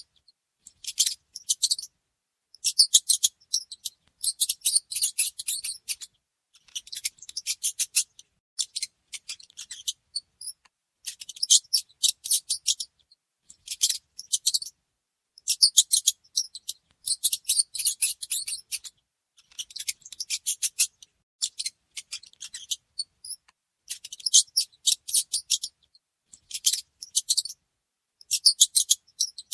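Mouse sounds: repeated bursts of rapid, high-pitched clicking, each about a second or two long, with short pauses between them.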